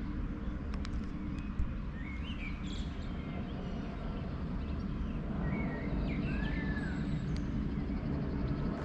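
Birds chirping a few times over a steady low background rumble, with one short arching call about two-thirds of the way in.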